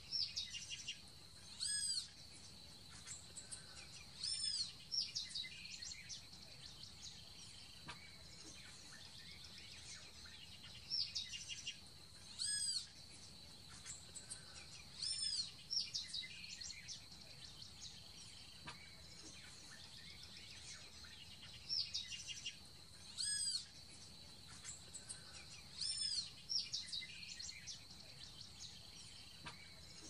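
Bird chirping in short groups of high, clear, arched notes, a phrase every few seconds, over a steady high-pitched tone.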